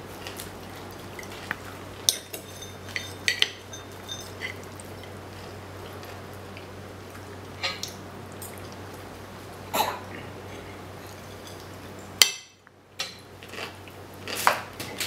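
A six-month-old baby making short, scattered mouth noises: quick clicks and smacks and brief high squeaks, a second or a few seconds apart. A low steady hum runs under them.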